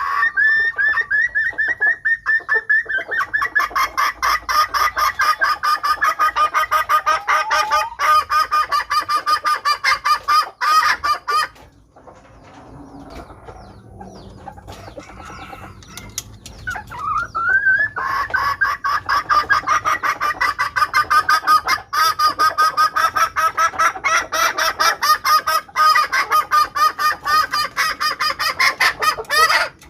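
Female red junglefowl giving its kekek cackle: a long run of quick, evenly repeated clucking notes, opening with a drawn-out note. The run breaks off for a few seconds about twelve seconds in, then starts again. This hen call is used as a lure to draw in wild males.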